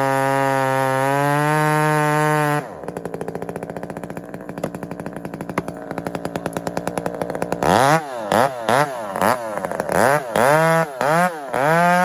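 Two-stroke chainsaw held at full throttle with a steady high note, dropping to idle about two and a half seconds in. It then idles unevenly and, from about eight seconds, is revved in a series of quick throttle blips, each rising and falling in pitch.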